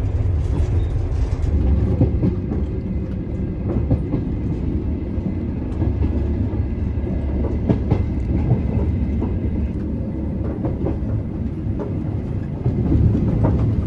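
Soviet-built sleeper train running on the rails: a steady low rumble with scattered clicks and knocks from the wheels over the track, growing a little louder near the end.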